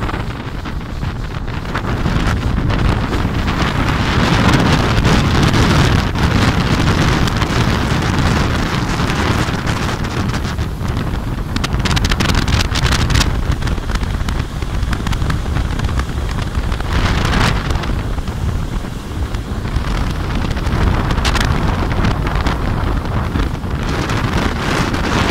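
Motorboat running at speed: a steady drone of engine and water rushing past the hull, with heavy wind buffeting on the microphone and a few brief louder gusts or splashes.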